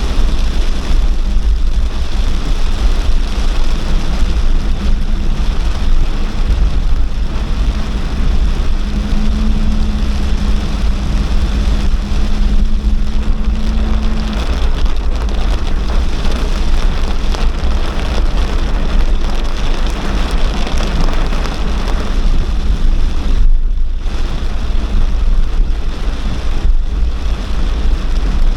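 Heavy downpour: a loud, steady rush of rain with a deep rumble underneath.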